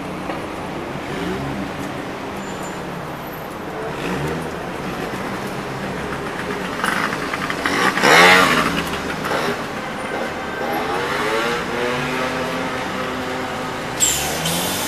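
Scania OmniLink CL94UB city bus's diesel engine heard from inside the passenger cabin, speeding up in several pulls with its pitch rising each time, loudest about eight seconds in. A sharper sudden sound comes near the end.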